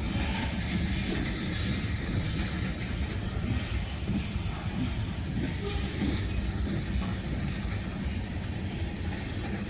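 Freight train rolling past close by: a steady low rumble of the cars' wheels on the rails.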